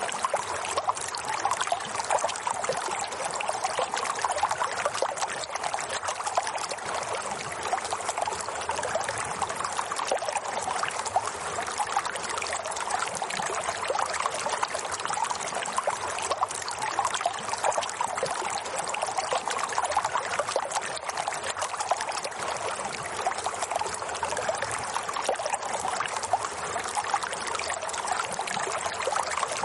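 Water flowing and trickling steadily, a continuous even splashing with no change or break.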